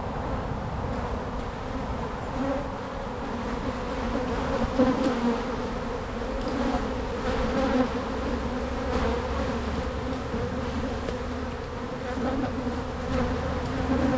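Honeybees buzzing in a dense, steady hum around an open hive, with a few light knocks.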